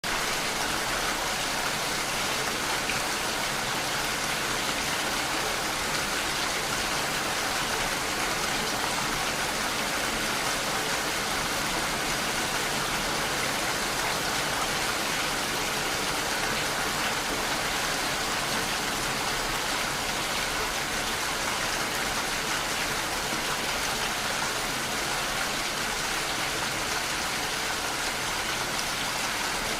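Steady rainfall: an even, unbroken hiss of rain without pauses or separate drops standing out.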